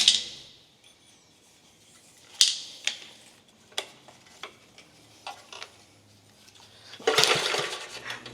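Starter rope pulled on a choked 1950 REO engine, which turns over twice, at the start and again near the end, without catching. In between come a few light clicks and clatter of handling.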